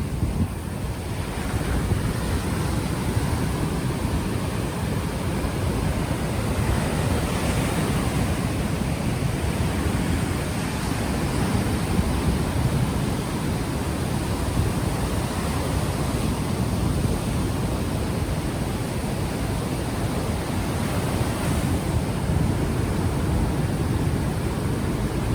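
Ocean waves washing onto a beach in a steady surge that swells slightly every several seconds, with wind buffeting the unshielded microphone and adding a low rumble.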